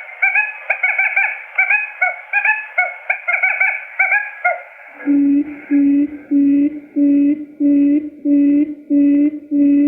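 Recorded quail lure calls played in a loop for trapping: a run of quick, rising chirping notes, about three or four a second, gives way about five seconds in to a steady series of low, flat hooting notes, each about half a second long, repeating evenly.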